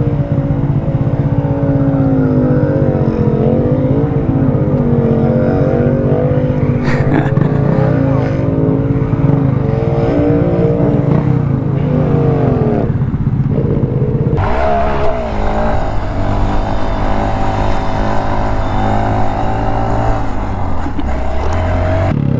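Vehicle engines revving and running, their pitch rising and falling. The sound changes abruptly about fourteen seconds in and again near the end.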